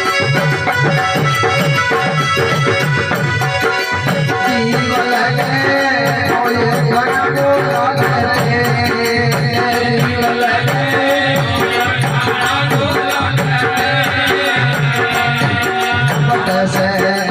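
Live folk bhajan music: a drum keeps a steady beat of about two strokes a second, with rattling, jingling percussion and sustained melodic tones over it.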